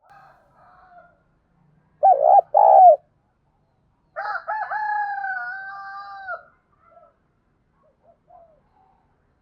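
Spotted dove cooing: two loud, short coos about two seconds in, then a longer drawn-out coo that dips and levels off, with softer coos around them. This is the call of a decoy dove kept to provoke wild doves into answering.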